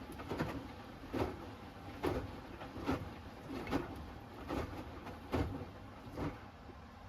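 Hoover Axi 10kg front-loading washing machine on its Rapid 30 wash, the drum turning so that the wet laundry tumbles and drops with a rhythmic swish and thud a little more than once a second over the motor's low hum. The tumbling stops about six and a half seconds in as the drum pauses.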